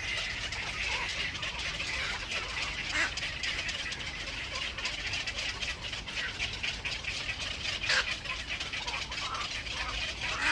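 Birds at a nest calling: a steady high-pitched chatter with short, louder calls now and then.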